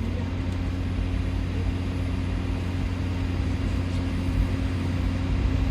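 Steady background noise of a powered Airbus A330-300 cockpit on the ground: an even rush of air with a constant low hum from the aircraft's ventilation and equipment.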